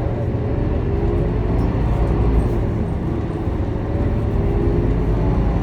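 Scania K230UB city bus's diesel engine and drivetrain running while the bus is under way, a steady low rumble with a faint whine that rises and falls.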